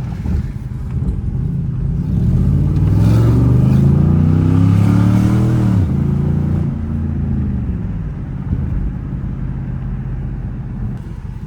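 Dodge Charger R/T's 5.7-litre Hemi V8 pulling under acceleration. Its pitch climbs for about four seconds, drops suddenly, then settles into a steady run.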